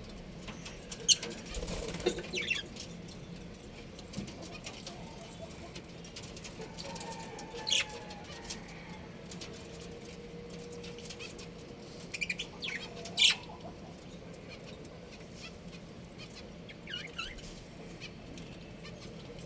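Budgerigars in a colony giving scattered short, sharp, high chirps, the loudest about a second in and again near the 13-second mark, over faint scratchy rustling.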